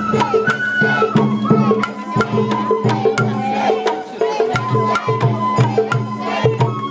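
Sawara bayashi festival music: a bamboo flute melody over steady, rhythmic taiko drum beats.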